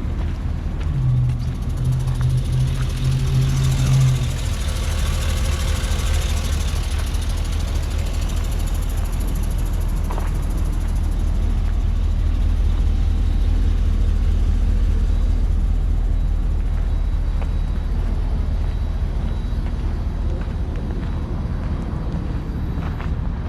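Isuzu NPR box truck's gasoline V8 engine running steadily with a deep low rumble. About a second in, a steady low hum sounds over it for about three seconds.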